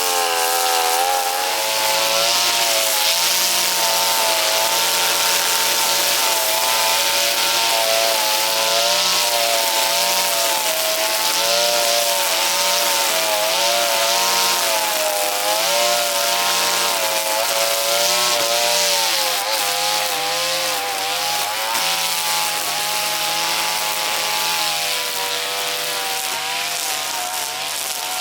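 Petrol brush cutter running while cutting grass, its engine speed rising and falling with the throttle.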